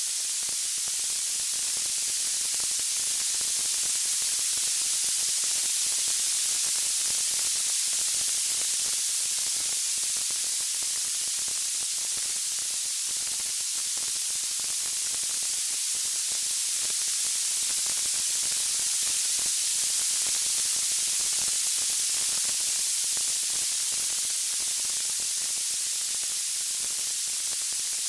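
Steady high-pitched white-noise hiss, like static, swelling and easing slowly in level, with no distinct crackles or pops.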